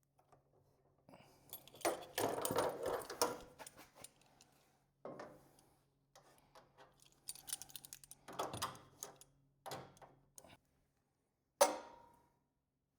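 Metal objects being handled and set down on a workbench: irregular clattering and clanking in several bursts, with one sharp metallic clank near the end that rings briefly.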